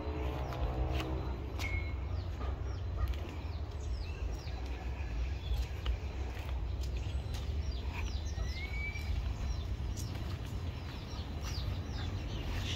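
Birds chirping outdoors: many short, high, falling chirps with a couple of longer rising whistles, over a steady low rumble.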